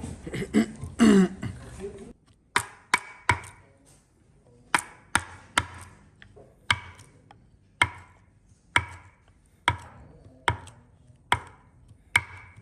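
Hand-tool striking blows in a woodworking job: about fifteen sharp knocks, often in twos or threes, each with a short ring. A rougher, louder scraping sound fills the first two seconds.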